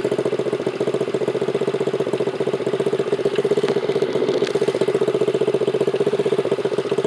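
Dirt bike engine running steadily at a low, even speed, its rapid firing pulses picked up close by a phone mounted on the handlebars.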